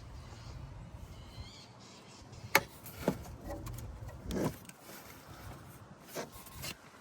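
A few sharp clicks and knocks over a faint low rumble: two loud clicks about half a second apart, then a short scraping rise and two softer knocks near the end, with a brief faint chirp before them.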